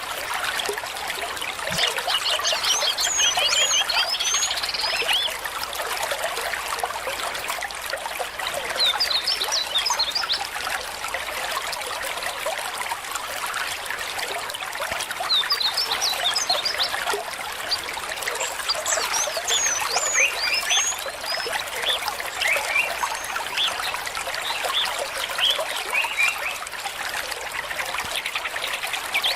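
Stream water trickling and splashing steadily. Bursts of quick, high chirping calls come every few seconds over the water.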